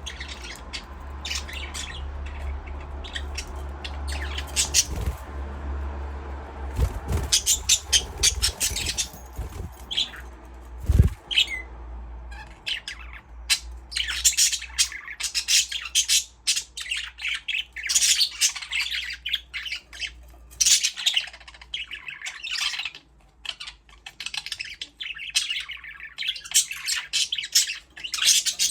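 A flock of budgerigars chirping and chattering, many short high calls overlapping. A low hum underneath fades out a little before halfway, and a few dull thumps sound, the loudest about eleven seconds in.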